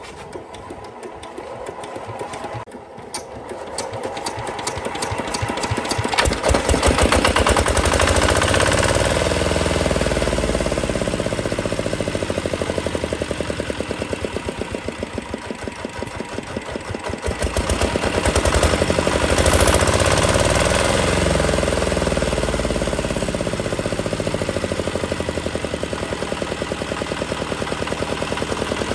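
Restored old Chinese D8 diesel engine starting: uneven knocks for the first few seconds, then it catches and builds up to a steady, even firing beat. Its speed drops briefly past the middle, then rises again.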